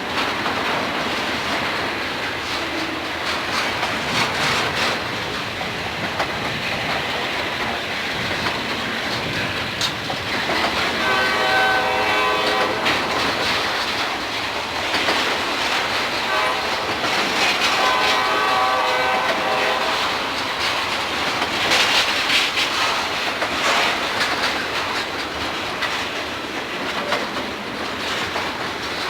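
Freight train passing with a steady rumble and clattering wheels, while a diesel locomotive horn sounds two long chord blasts, one about eleven seconds in and another about six seconds later.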